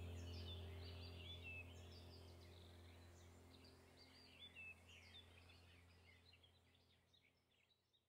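Faint chirping and twittering of several small birds, many short quick calls throughout. A low steady hum underneath fades away over the stretch.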